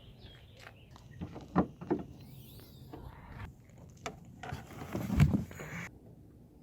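A few sharp knocks about a second and a half in, then a louder, fuller thump about five seconds in, against a low background.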